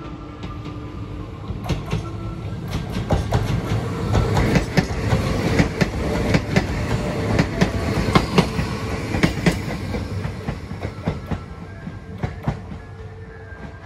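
Hakone Tozan Railway electric train passing close by, its wheels clacking over rail joints. The rumble grows from about two seconds in, is loudest in the middle and fades after about ten seconds. Short repeated tones of a level-crossing warning bell sound at the start and again near the end.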